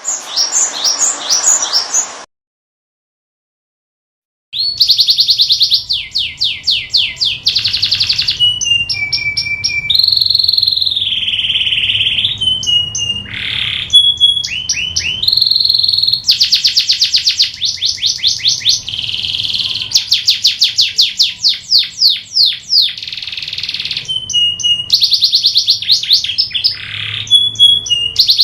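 Domestic canary singing: long runs of rapid repeated trills and rolls, each phrase at its own pitch and changing every second or two. The song breaks off completely for about two seconds near the start, then runs on.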